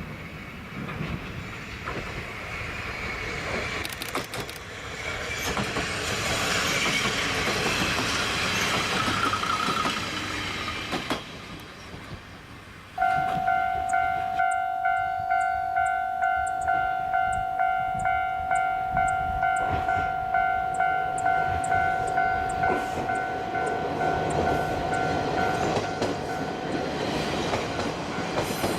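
Diesel railcar running on the line, a broad rumbling noise for the first ten seconds or so. About halfway through, a steady ringing warning tone starts, pulsing evenly about one and a half times a second.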